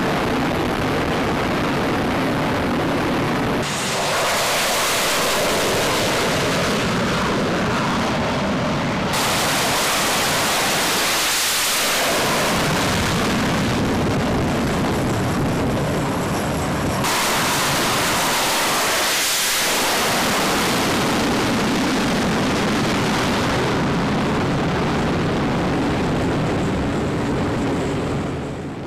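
Jet fighter engine roar during flying passes, as a steady loud rush that shifts abruptly several times between clips. It sweeps twice with a swoosh as the jet goes by, then fades out at the end.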